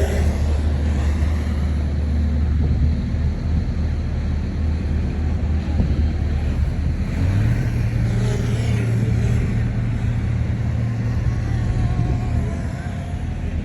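Crawler bulldozer's diesel engine running steadily under load. About halfway through, its hum steps up in pitch as the engine speeds up, and then it holds at the higher speed.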